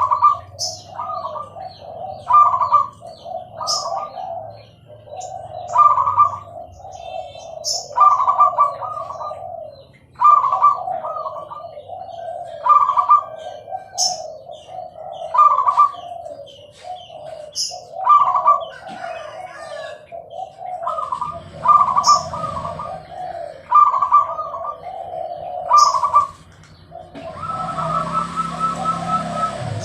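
Zebra dove (perkutut) singing its cooing song: short rolling phrases of rapid notes, a new phrase about every two seconds, the bird in full, steady song. A steady rushing noise comes in near the end.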